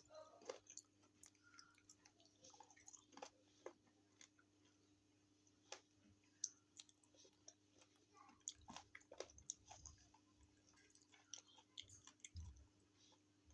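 Close-miked chewing and biting of chicken feet: a run of small wet clicks, snaps and crunches of soft skin and cartilage, irregular and quiet.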